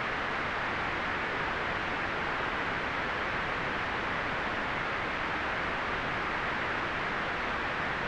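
Steady, unchanging synthetic white noise: an even hiss, strongest in the upper middle and rolled off at the top.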